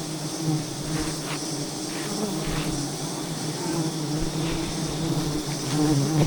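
A swarm of giant honey bees buzzing: a steady, slightly wavering low hum, with a few faint ticks.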